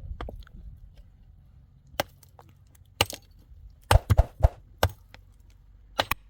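A series of sharp knocks, about eight irregular strikes with some coming in quick pairs, each cut short.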